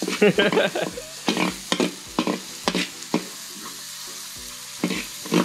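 Garlic and shallots sizzling in hot oil while being stirred, with the stirring utensil scraping and knocking against the pan many times at an uneven pace.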